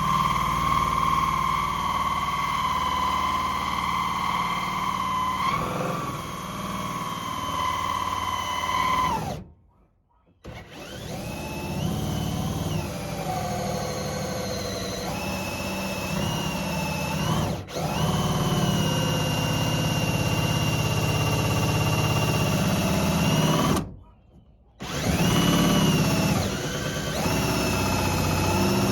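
Power drill whining as it drills holes, its pitch shifting up and down. It stops briefly twice and starts again.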